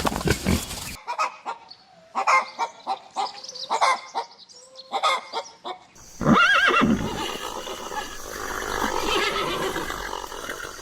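A horse whinnying about six seconds in: a loud, high call that falls away into a breathy, rough tail lasting several seconds. Before it, pig grunts in the first second, then a run of short, irregular animal calls.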